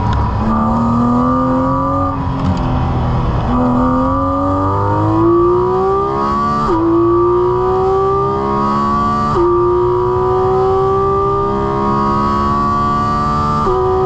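Porsche 718 Cayman GT4 RS's naturally aspirated flat-six, heard inside the cabin, accelerating hard out of a slow corner. The engine note climbs steadily in pitch, broken by quick upshifts of its PDK gearbox, three of them in the second half.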